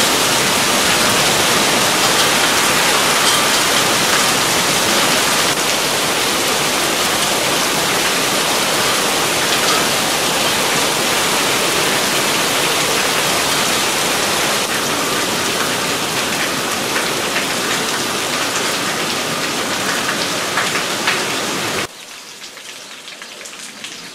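Heavy rain pouring down on pavement and tables, splashing into standing water in a dense, steady hiss. A second or two before the end it drops off abruptly to a much quieter background.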